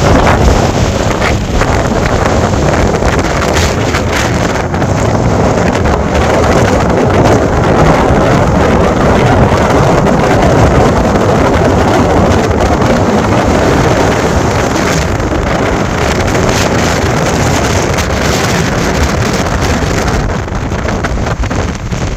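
Strong cyclone wind blowing hard across the microphone, with the rush of rough sea surf beneath it; it eases a little near the end.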